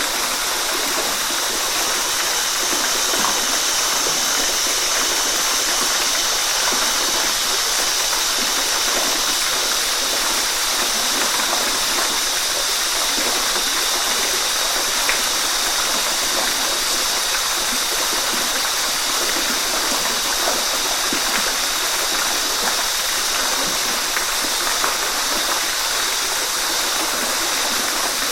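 Waterfall rushing, a steady even noise of falling water with no let-up.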